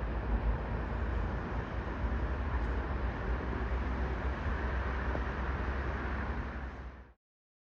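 Steady outdoor rumble and hiss, strongest in the low end, which fades quickly and cuts to silence about seven seconds in.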